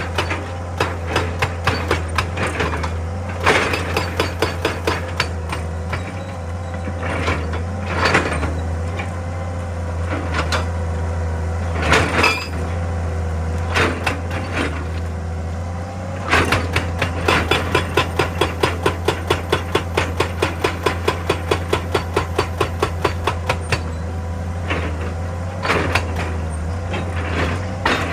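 Excavator-mounted hydraulic rock breaker hammering rock over the steady running of the machine's diesel engine. The blows come in short bursts at first; about halfway through they settle into a long even run of about three to four blows a second.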